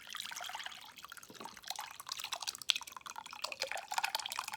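Hot ramen soup being poured from a takeout container into a bowl, splashing and spattering unevenly.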